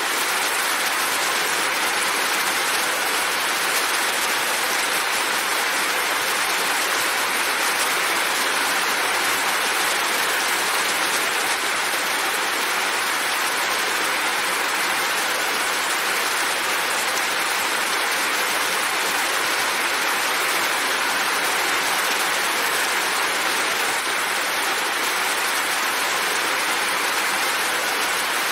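Steady rain falling: an even, dense hiss that holds unchanged throughout.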